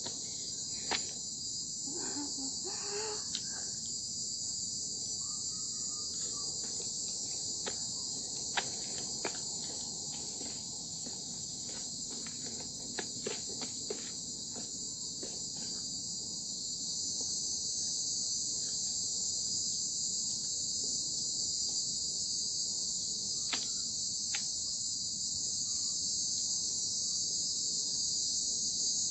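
A steady, dense chorus of insects buzzing high, growing a little louder after the middle, with scattered sharp clicks over it.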